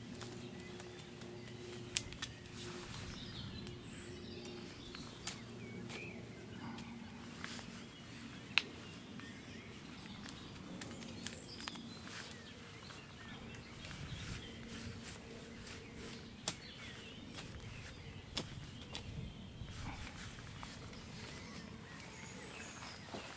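Outdoor rural ambience: a steady low hum under scattered sharp clicks and taps, with faint bird chirps.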